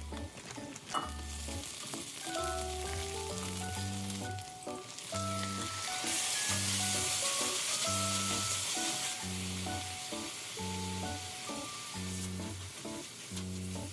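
Onions and shrimp sizzling in hot oil in an enamelled cast-iron wok. The sizzle swells sharply about six seconds in, as the raw shrimp go into the pan, and eases off again about three seconds later. Background music with a steady bass line runs underneath.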